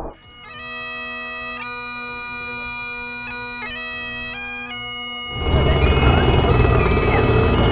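Bagpipes playing a tune over a steady drone. About five seconds in they stop and a loud, noisy rush of sound takes over.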